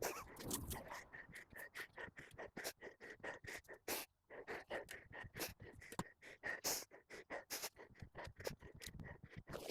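Quick, irregular scraping strokes, about two or three a second, with no engine running: hand work on grass, soil or pavement edges.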